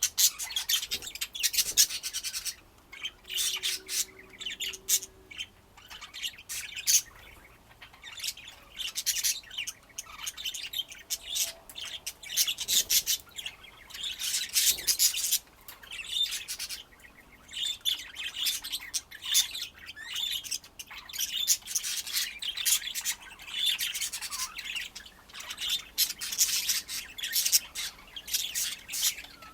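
Pet budgerigars chattering, a dense run of rapid high chirps and warbles that thins out for a few seconds about six seconds in, then picks up again.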